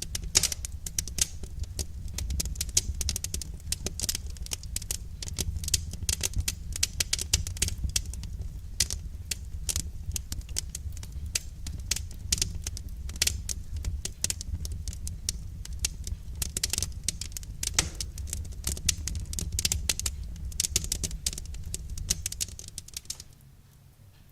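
Wood fire crackling with many irregular sharp pops and snaps over a low steady rumble. It drops away near the end.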